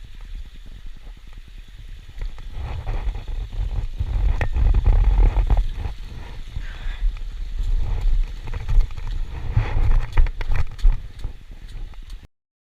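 Wind buffeting a GoPro's microphone outdoors, a low rumble that swells and fades in gusts, with scattered clicks and knocks. It cuts off abruptly near the end.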